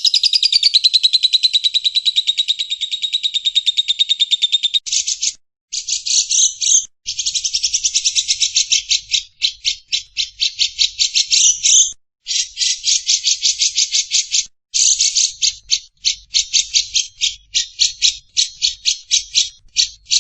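Caged songbird's rapid, buzzy chattering trill of the kind played as masteran training song: unbroken for the first five seconds, then broken into bursts, and near the end into separate quick notes at about four or five a second.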